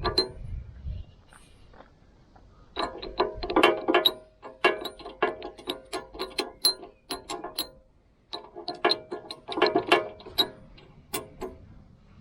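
Hand ratchet clicking in two runs of quick strokes while bolts are run down, with a short pause between the runs.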